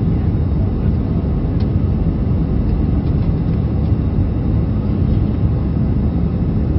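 Airbus A321 jet engines running at a steady low rumble, with no change in level or pitch.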